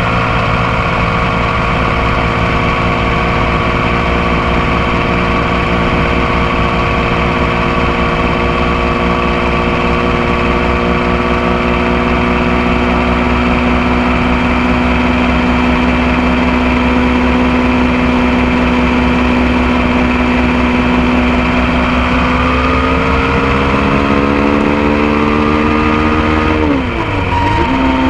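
Motorcycle engine running steadily under way, picked up close to the bike, with road and wind noise. The engine note rises slowly near the end, then dips sharply and recovers, as with a gear change.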